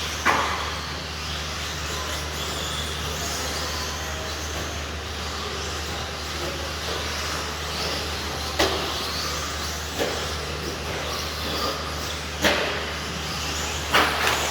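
Radio-controlled stadium trucks racing on a track: a steady hiss of motors and tyres over a constant low hum, broken by four sharp knocks of trucks landing or striking something.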